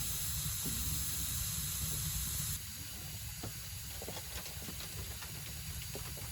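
Pork belly sizzling on a hot iron griddle: a steady hiss with scattered small crackles, dropping a little in level about two and a half seconds in.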